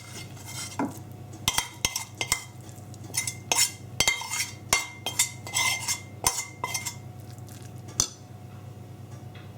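Metal spoon scraping and tapping against a pan and bowl while a cooked vegetable mixture is spooned out, a quick run of clinks and scrapes that thins out after about seven seconds. A low steady hum lies underneath.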